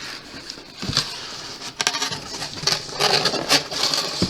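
Cardboard box contents and packaging being handled and rummaged through: rustling and crinkling with sharp little clicks, busier near the end.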